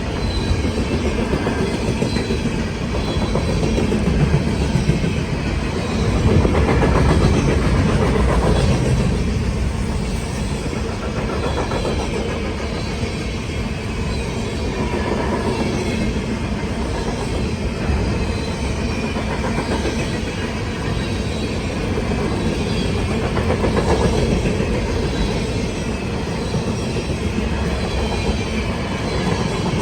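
CSX manifest freight train's cars rolling past in a steady rumble, wheels clicking over the rail joints.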